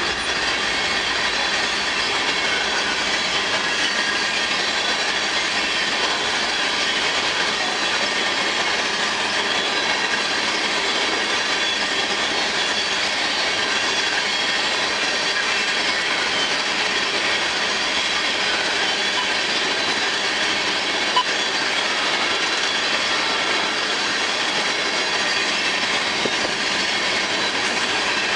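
Freight train of empty tank cars rolling steadily past, steel wheels running on the rails with thin high ringing tones over a continuous rumble-free clatter. A single brief click sounds about two-thirds of the way through.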